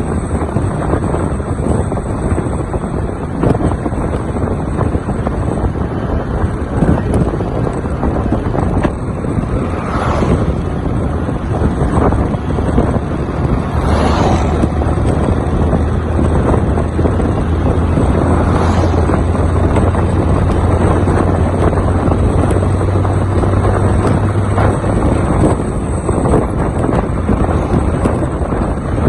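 Wind rushing over the microphone of a Honda Titan 160 motorcycle rider at road speed, with the bike's single-cylinder engine running underneath. The noise swells briefly about three times, about a third of the way in, near halfway and about two thirds of the way in.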